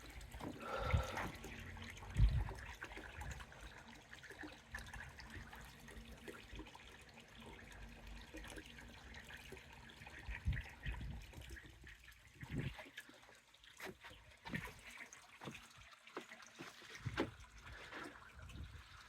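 Koi pond water trickling steadily, with a few soft low thumps.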